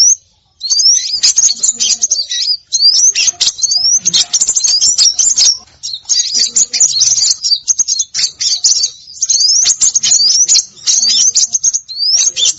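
Recorded calls of small songbirds played as a bird-trapping lure: dense, high, rapid chirping and twittering with quick rising whistles, in bursts with brief pauses.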